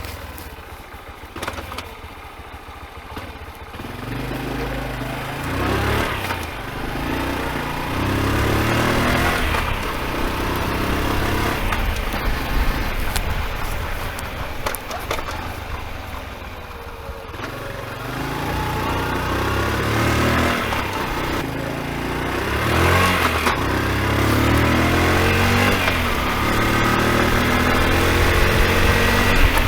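Honda Super Cub's air-cooled single-cylinder four-stroke engine running and being revved up and down several times. No clicking is heard, after a repair for a noise the owner thinks may have come from the piston striking something.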